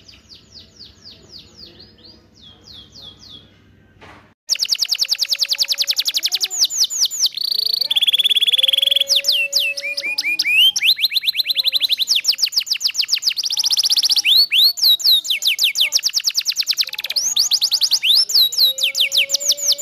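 Canary singing: long rolling trills of rapid repeated notes alternating with held high whistles. The song is faint at first, then becomes loud and close about four seconds in.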